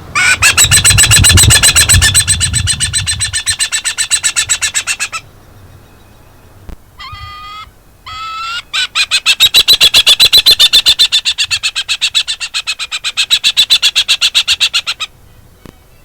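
New Zealand falcon (kārearea) calling: a rapid, harsh chatter of repeated notes, about ten a second, in two long bouts with a couple of shorter calls between them.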